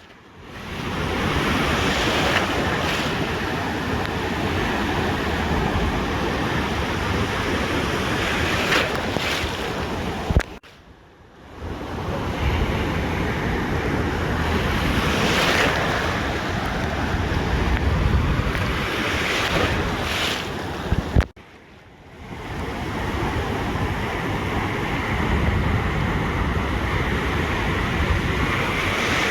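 Ocean surf washing onto a beach, a continuous rushing noise that swells and ebbs, with wind buffeting the microphone. The sound drops out abruptly twice, about 11 and 22 seconds in, each time after a click, then fades back in.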